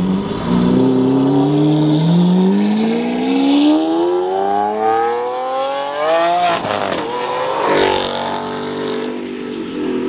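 A car engine accelerating hard, its revs climbing steadily for about six seconds, then dropping sharply with a gear change about two-thirds of the way through and running on at lower revs.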